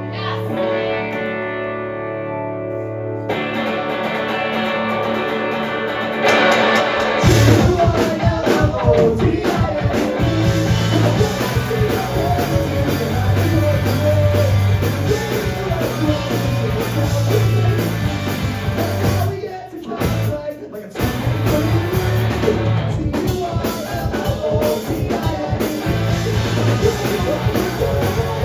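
Live rock band starting a song: a held guitar chord rings, the sound builds, and the full band comes in about seven seconds in. There is a brief break near twenty seconds before the band plays on.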